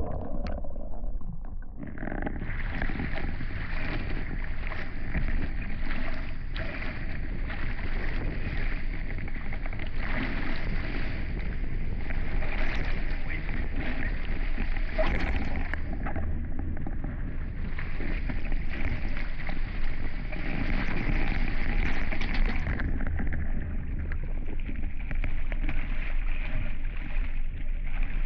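Water rushing past the hulls of a Hobie 16 catamaran under sail, a steady hiss over a low rumble of wind on the microphone. The hiss picks up about two seconds in.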